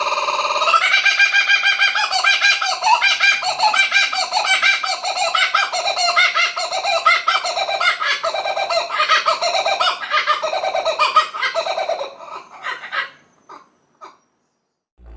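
Laughing kookaburra's call: a long run of rapid, repeated cackling notes that rise and fall in bursts, then die away with a few last notes.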